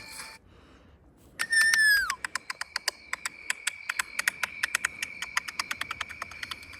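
A loud whistled call that slides down in pitch about a second and a half in, followed by a long run of quick, sharp ticks, over a steady high drone.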